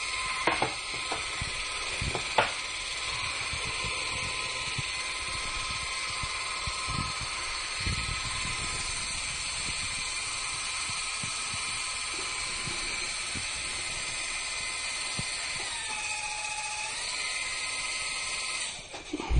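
Small electric motor and spinning rotor of a home-built RC helicopter, a steady high whine. The pitch dips briefly near the end, then the motor cuts off, followed at once by a loud thump.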